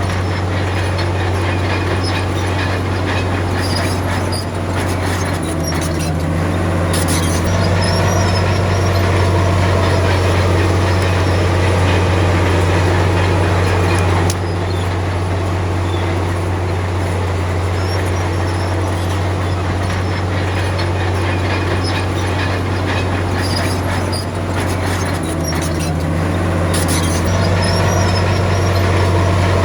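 Komatsu D53P crawler bulldozer's diesel engine running steadily under load. It picks up in pitch and loudness twice, with bursts of metallic clanking from the tracks.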